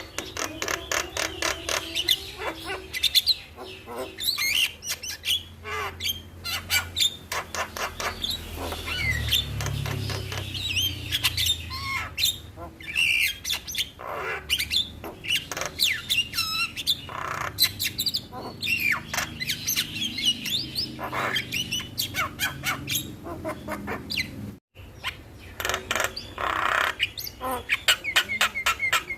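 Black-winged myna (jalak kebo) singing: fast runs of clicking chatter mixed with sliding whistles and harsh squawks. This is a birdkeeper's masteran recording, used to prompt a captive myna to sing. The song breaks off for an instant about 25 seconds in.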